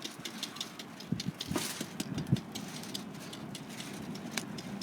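Wood fire crackling with many sharp irregular pops and ticks, with a few duller knocks between about one and two and a half seconds in.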